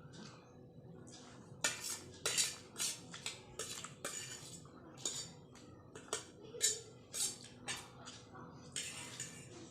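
Cutlery scraping and clinking against a dish while noodles are eaten: a string of short, sharp strokes, about one or two a second, starting about one and a half seconds in.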